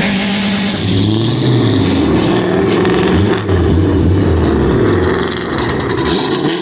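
Car engine revved hard several times, its pitch climbing and dropping with each blip of the throttle.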